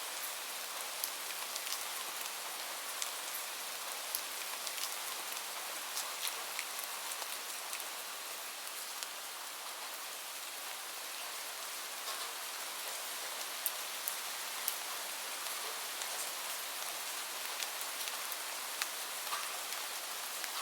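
Steady rain hiss with a crackling fire, sharp pops sounding irregularly about once a second.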